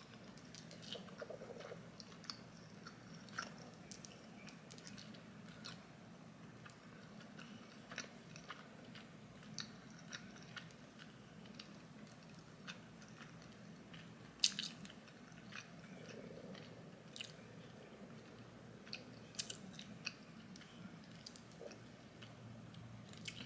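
A person chewing chicken nuggets close to the microphone: scattered soft mouth clicks and smacks, with one sharper click a little past halfway, over a faint steady hum.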